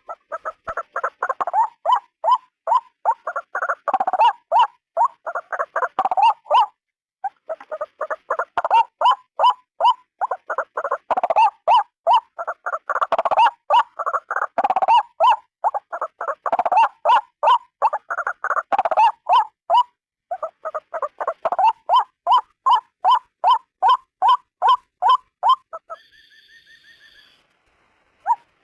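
White-breasted waterhen calling: a long, fast run of harsh, repeated notes, about four a second, broken by a couple of short pauses. Near the end the calls stop, and a faint steady tone sounds briefly.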